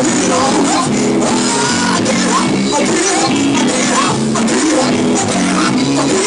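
Live church band playing a steady, rhythmic gospel groove, with sustained keyboard or organ chords over drums and a lead voice or instrument weaving over the top.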